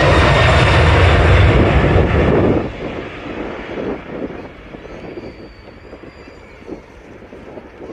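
JAL Boeing 767-300ER's twin jet engines at takeoff thrust, loud and steady, dropping off abruptly about two and a half seconds in. After that, wind buffets the microphone.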